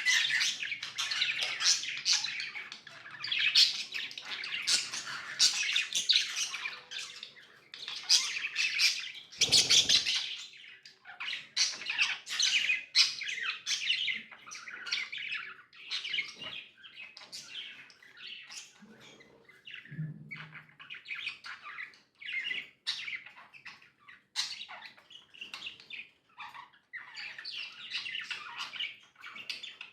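Budgerigars chattering with fast overlapping chirps and squawks. The calls are dense for the first ten seconds, with one louder short burst about ten seconds in, then thin out into sparser chirps.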